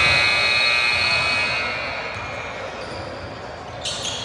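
A basketball bouncing on an indoor court during a game, with high steady tones fading out over the first two seconds and a sharp knock near the end.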